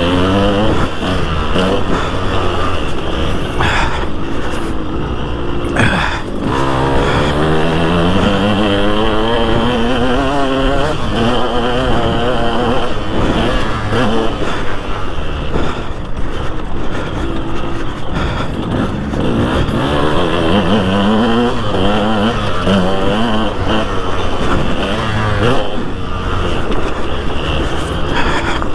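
2003 KTM 200 SX two-stroke motocross engine being ridden hard: it revs up in repeated rising sweeps, then drops off as the throttle closes or the gear changes.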